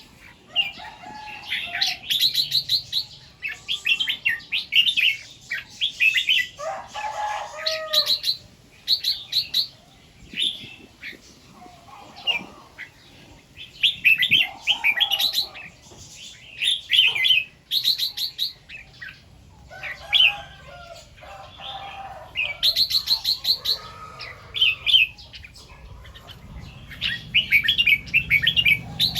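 Red-whiskered bulbul singing: short, bright warbling phrases repeated every second or two, with lower notes mixed in.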